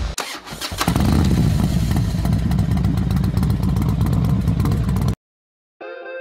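Motorcycle engine running loud and rough with a deep low rumble, cutting off abruptly near the end; a short silence follows, then music starts.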